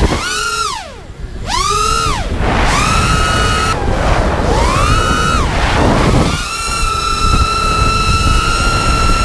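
FPV quadcopter's brushless motors whining. The pitch drops and climbs again several times as the throttle is chopped and punched, then holds a steady high whine from about two-thirds of the way in. Wind rumbles low on the onboard camera's microphone.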